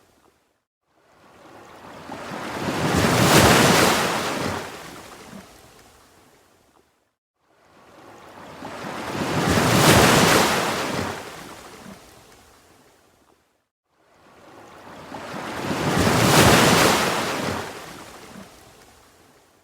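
Ocean waves breaking in slow, regular swells: three times each wash builds to a full rush and fades away, about six and a half seconds apart, with a brief near-silent lull between them.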